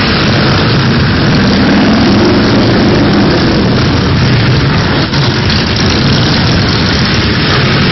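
A convoy of motorcycles riding past, their engines running loud and steady, with one engine's pitch rising and falling about two seconds in.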